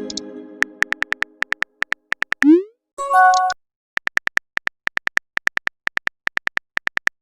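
Chat-app sound effects: quick runs of sharp typing clicks, broken by a short rising blip about two and a half seconds in and a brief electronic chime just after it. A chord fades out at the start.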